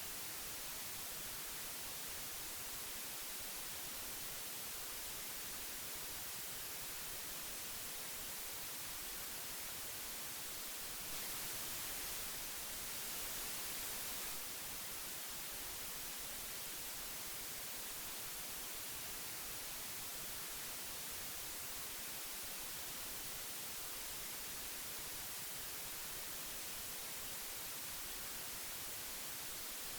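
Steady hiss of old magnetic tape playback, strongest in the high frequencies, swelling slightly for a few seconds near the middle.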